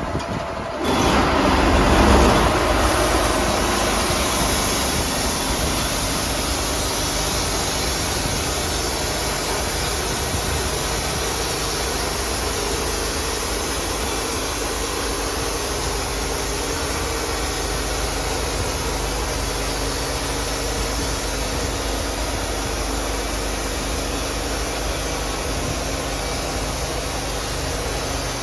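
Sawmill running steadily and loudly, with a louder surge of noise about a second in that settles after a couple of seconds.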